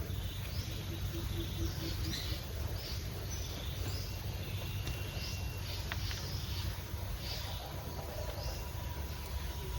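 Outdoor ambience with birds chirping repeatedly in short high calls over a steady low background rumble.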